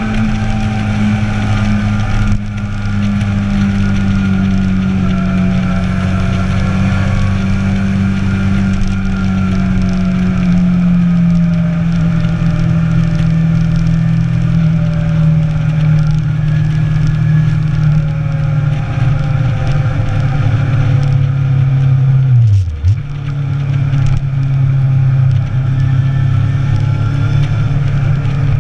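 Inline-four sport motorcycle engine running under way, its note sinking slowly as the bike eases off. About 23 seconds in the note dips sharply for a moment and comes straight back, then holds steady.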